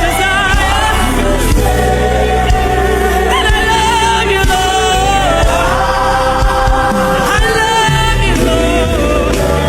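Gospel worship music: a choir and congregation singing over a steady band with sustained bass and keyboard.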